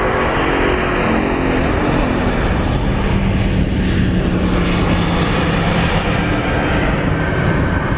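Jet airliner passing close by with a loud, steady engine roar. Its engine tones fall in pitch as it goes past.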